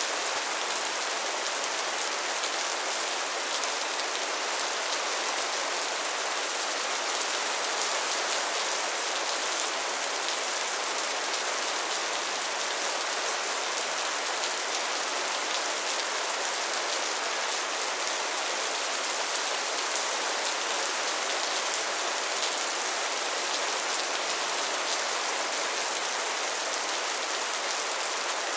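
Steady, dense rain pattering on tin sheeting, a continuous hiss of many small drop ticks.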